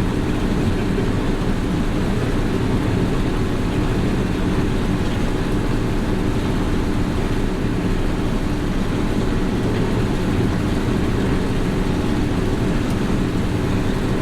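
Combine harvester running steadily while harvesting soybeans: an even, low engine and machinery drone with a steady hum and no let-up.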